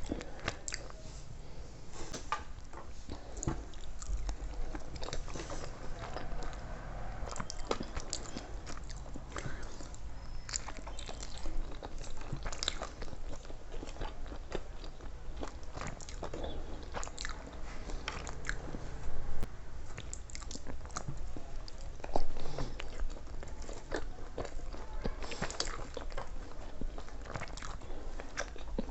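A person eating close to the microphone: steady biting and chewing with crunches and mouth clicks, and two louder bites a little after the middle.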